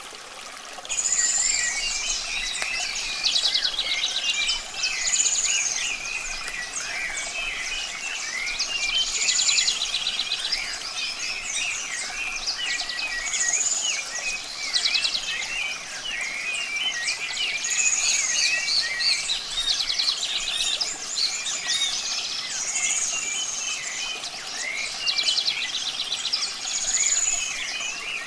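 Dense chorus of many songbirds chirping, whistling and trilling, setting in about a second in and carrying on without a break.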